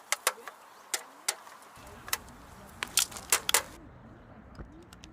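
A series of sharp clicks and knocks, irregularly spaced, with the loudest few close together about three seconds in.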